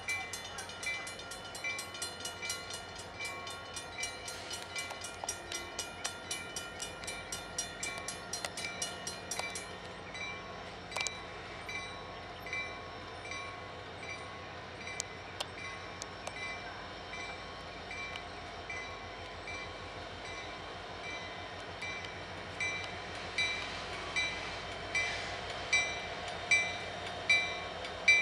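Diesel freight locomotives approaching slowly, with a bell ringing in a steady rhythm of about two strikes a second over the low running of the engines; the strikes grow louder near the end.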